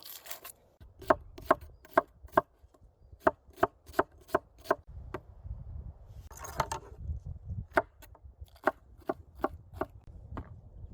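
Knife chopping vegetables on a cutting board, sharp regular strokes about two to three a second, broken about halfway through by a brief rustle.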